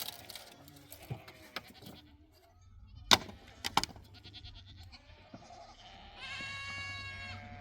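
A flock animal bleating: one long call of about a second near the end, with a few sharp clicks and knocks earlier on.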